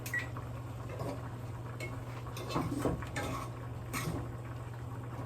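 Kitchen clatter: dishes and utensils clinking and knocking in a string of sharp clicks, busiest in the middle, over a steady low hum. There is a short electronic beep right at the start from the oven's control panel as it is set to preheat.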